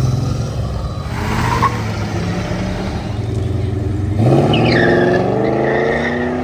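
A car's engine running low as the car rolls out, then revving hard about four seconds in, its pitch jumping up and climbing as the car accelerates away.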